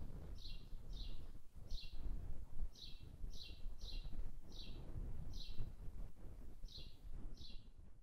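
A bird chirping over and over, short sharp chirps of the same shape about once a second, over a low rumble of outdoor background noise.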